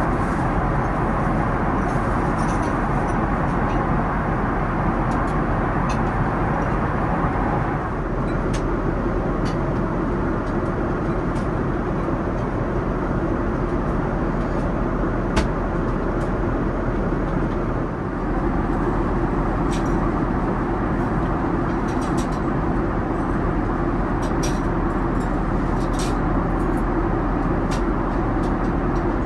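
Steady rushing cabin noise of a Boeing 787-9 airliner, engines and airflow heard from inside the cabin, with a few faint clicks.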